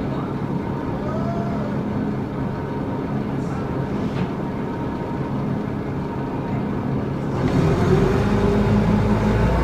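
Volvo B7L bus's six-cylinder diesel engine heard on board, running steadily, then growing louder about seven and a half seconds in as it pulls harder.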